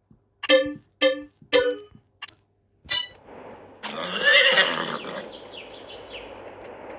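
Five short ringing clinks about half a second apart, then a horse whinnies loudly about four seconds in, its call wavering and falling away over a steady outdoor hiss.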